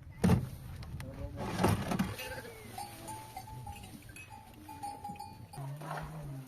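A flock of sheep and goats bleating, with several calls, including a low one near the end.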